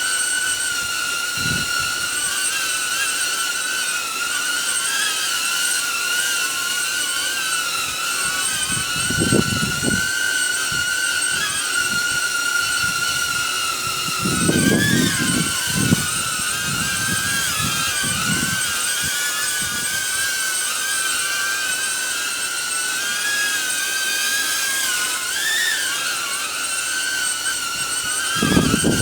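Small DJI quadcopter's propellers whining steadily as it holds a hover in strong, gusty wind, the pitch wavering briefly as the motors correct. Wind buffets the microphone in low rumbling gusts about a third of the way in, for a few seconds around the middle, and again at the end.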